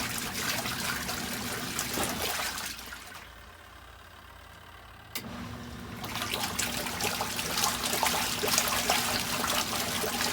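Compact twin-tub portable washing machine's wash tub running: a steady motor hum under soapy water sloshing. About three seconds in it fades for roughly two seconds, then starts again suddenly.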